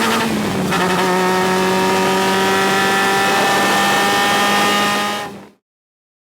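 Single-seater race car engine heard from the cockpit. Its pitch drops briefly about half a second in, as on an upshift, then climbs steadily as the car accelerates. The sound cuts off suddenly about five and a half seconds in.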